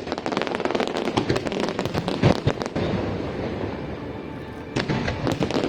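Aerial fireworks going off in rapid succession: dense crackling and popping with a louder bang about two seconds in, a brief lull, then a fresh volley near the end.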